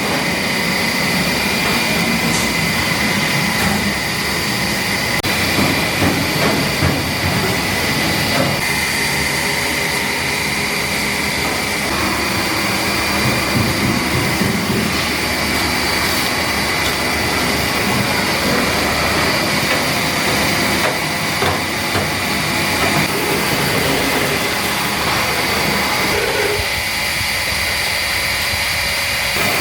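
Automated washing line for raw ingredients running steadily with high-pressure water: a continuous machine noise carrying two steady high whines. The lower rumble thins out near the end.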